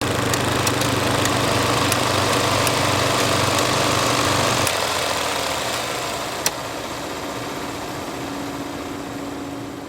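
Film projector running with a steady mechanical whir and scattered light clicks. Its low hum drops away about halfway through, with one sharp click a little later.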